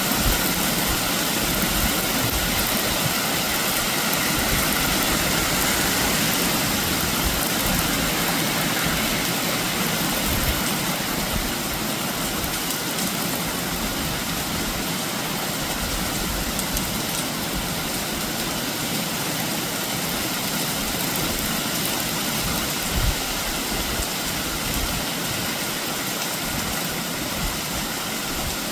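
Steady rain falling, an even hiss of many drops without a break, easing slightly after about ten seconds.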